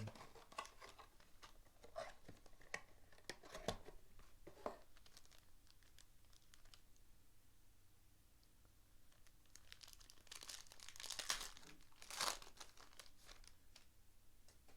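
Packaging on a box of trading cards being torn and crinkled open, faintly. Scattered light clicks and taps come first, then two longer bursts of tearing near the end.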